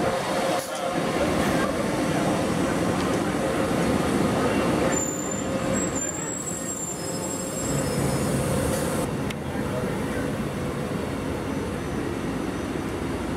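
SEPTA Silverliner IV electric train rolling in along the platform: a steady rumble of wheels and motors with a steady hum. Thin high squeals come as it slows to a stop, about five to eight seconds in. Another Silverliner IV pulling out follows near the end, with a lower rumble.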